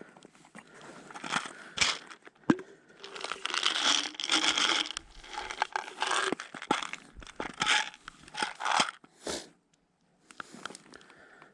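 Irregular crinkling, crunching and tearing noises with sharp clicks, stopping briefly about nine and a half seconds in and returning for a moment near the end.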